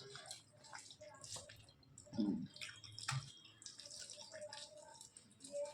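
Close, wet eating sounds from a mukbang: soft, irregular squelches and clicks of rice and curry being chewed and handled.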